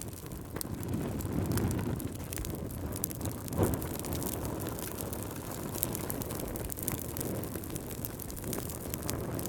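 Wood fire crackling, with irregular small pops over a low steady rumble, and one louder pop about three and a half seconds in.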